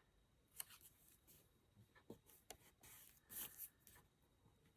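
Near silence with a few faint taps and a brief rub as pieces of cardstock are handled and pressed together while gluing.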